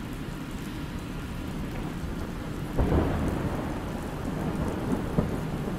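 Thunderstorm: steady rain, then a sudden clap of thunder a little before halfway through that rolls on as a low rumble.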